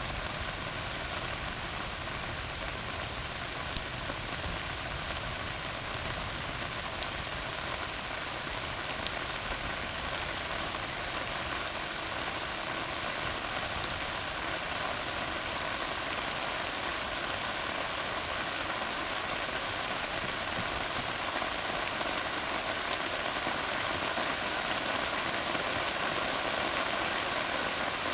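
Steady rain falling on a tarred road, with scattered single drops ticking sharply through the hiss. It grows slightly heavier near the end.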